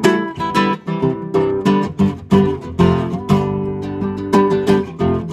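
Acoustic guitar strumming chords in a steady rhythm, the instrumental close of the song with no singing.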